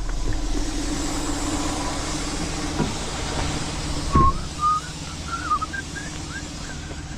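Tow truck engine idling steadily, with a single knock about four seconds in followed by a run of short, wavering high chirps.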